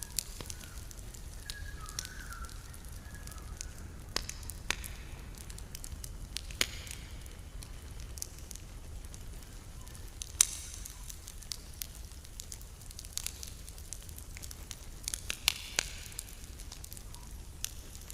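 Campfire burning and crackling, with irregular sharp pops, the loudest about ten seconds in, over a steady low rumble. A faint thin whistle wavers in the first few seconds.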